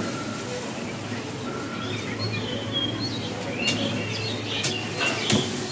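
Small birds chirping in short, high calls from about two seconds in, over a low steady hum, with a few sharp clicks near the end.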